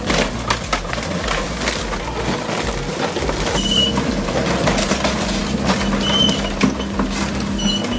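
Excavator crushing vehicles: irregular crunching and cracking over its running engine, with a few brief high squeaks.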